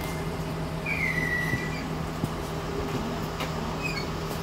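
Passenger train heard from inside the carriage, its engine humming steadily as the train starts to roll out slowly. A short, high, falling whistle comes about a second in, and a few faint chirps follow near the end.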